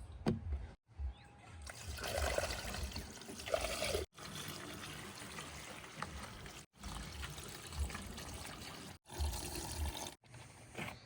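Loose mud and soil pouring and trickling, as from a backhoe loader's bucket being emptied, in a faint noisy wash with heavier pours about two and three and a half seconds in. It is broken by several abrupt cuts.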